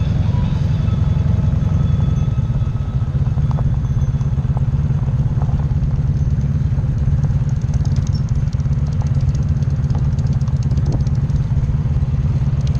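Motorcycle engine running steadily as a low, even rumble, with no revving.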